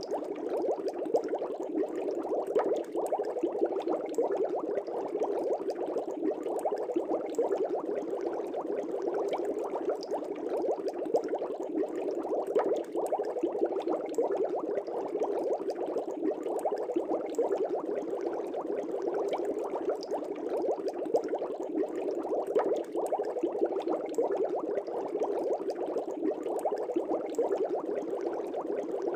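Air bubbles streaming up through the water of a fish tank: a steady, dense bubbling made of many small quick pops.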